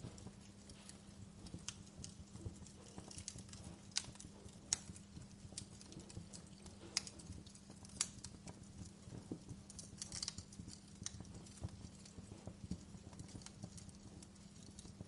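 Wood fire crackling, with irregular sharp pops and snaps, a few louder ones, over a faint low steady hum.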